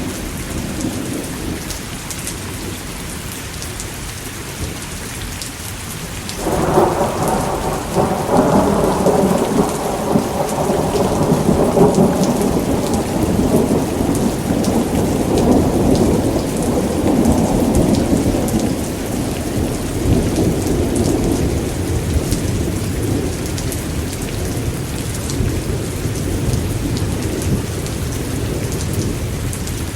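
Thunderstorm: steady heavy rain, with a long roll of thunder that breaks in suddenly about six seconds in, rumbles on for around fifteen seconds and slowly fades back under the rain.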